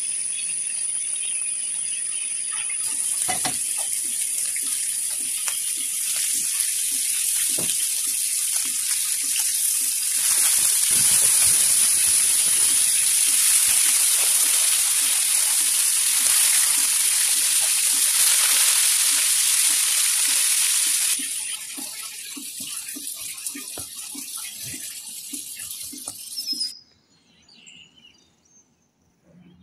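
Whole pomfret shallow-frying in hot oil in a pan: a steady, loud sizzle with a few light clicks of metal tongs against the pan. The sizzle swells for a stretch in the middle, drops about 21 seconds in and cuts off near the end.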